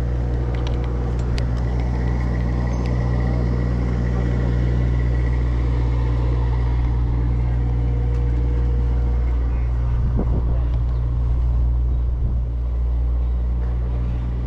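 An engine idling with a steady low hum that does not change.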